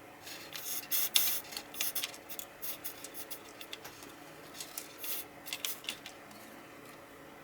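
Irregular scratching and rubbing sounds in quick, uneven bursts for about six seconds, then stopping.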